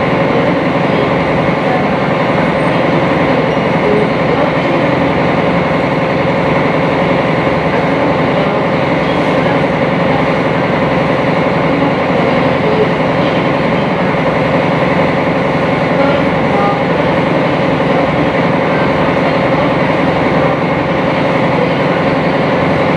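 A sightseeing boat's engine running steadily under way, heard from on board as a constant drone with several steady hum tones.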